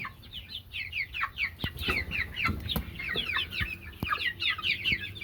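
A flock of young chickens peeping: many short, falling chirps overlapping continuously, with a few sharp clicks among them.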